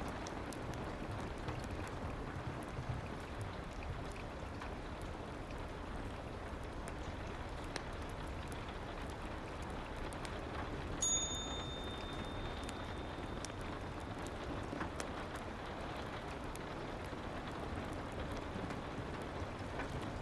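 Steady soft rain with scattered small crackles of a fireplace. About halfway through, a single high chime sounds and rings out over a couple of seconds: the pomodoro timer signalling the end of the work session.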